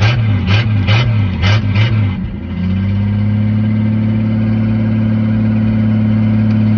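Old truck engine running unevenly, surging and pulsing about twice a second as it struggles to hold an idle. About two and a half seconds in it settles into a steady, even idle.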